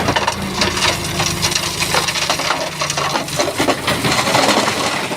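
Shantui bulldozer's diesel engine running while stones clatter and crunch against each other in a rapid series of sharp knocks as its blade pushes rock fill.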